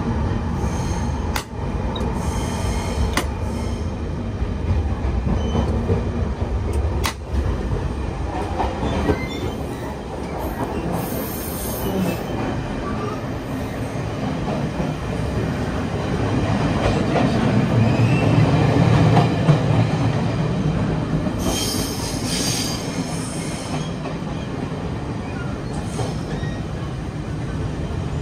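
Taiwan Railways passenger train running along the track: a steady rumble with sharp clicks about 1, 3 and 7 seconds in, growing louder a little past halfway, with brief high-pitched wheel squeal in between.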